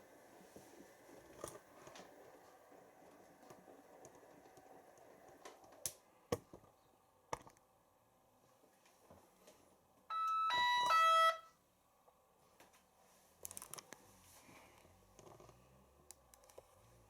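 Siemens iQ washing machine's electronic beeper playing a short tune of several stepped notes about ten seconds in, the signal that the program has stopped at rinse hold and is waiting for a spin or drain choice. A few faint clicks come before and after it.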